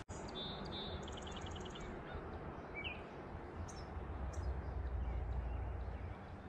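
Birds calling: a quick trill of high notes in the first two seconds, then a single short rising chirp and a few brief high peeps, over a low steady rumble.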